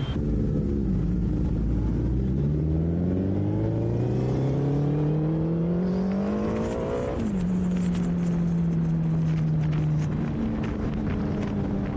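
Suzuki Hayabusa's inline-four engine pulling away under throttle: its pitch rises steadily for about seven seconds, drops sharply at an upshift, then holds nearly level as the bike cruises, with a small rise near the end.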